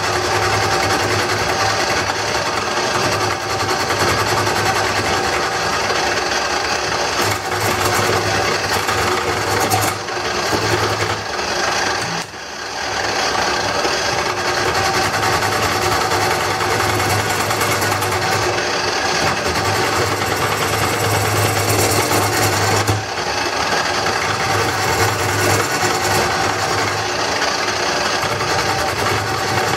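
Wood lathe running while a hand-held turning tool cuts into the spinning bowl blank, taking off its waxed outer layer: a steady scraping hiss over the motor's hum. The cut eases off briefly a few times, most clearly about twelve seconds in.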